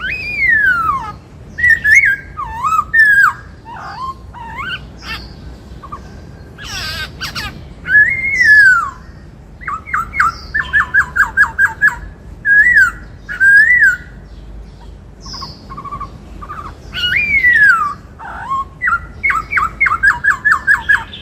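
Black-throated laughingthrush singing loud whistled phrases: slurred notes that fall and rise, quick runs of about eight repeated notes a second near the middle and again near the end, and a short harsh, rasping call about seven seconds in.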